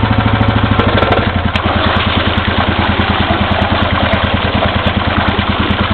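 2003 Briggs & Stratton 5 HP single-cylinder, flathead, air-cooled outboard motor running at low speed in reverse gear, with a rapid, even firing beat from its muffled exhaust. Its low note shifts slightly a little over a second in.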